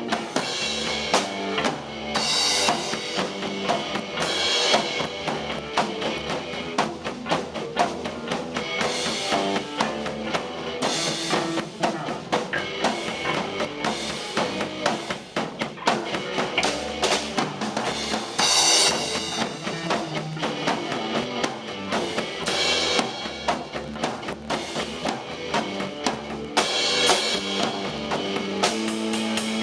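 Rock band playing an instrumental passage with the drum kit out front: a steady kick and snare beat, with cymbal crashes every few seconds.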